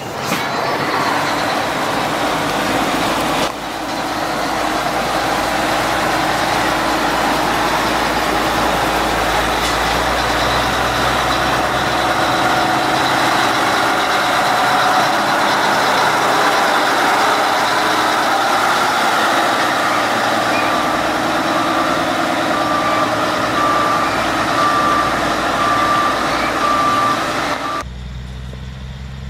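Large truck engine running loud and steady. Partway through, a vehicle's reversing alarm starts beeping at an even pace, just under a second between beeps.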